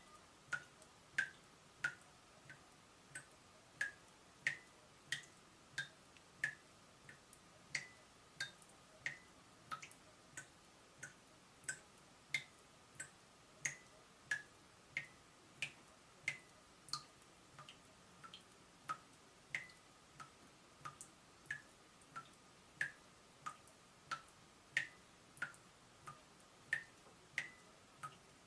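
Water dripping from a leaking tap in a steady, slightly uneven run of short plinks, about one and a half drops a second, each with a quick upward-bending ring.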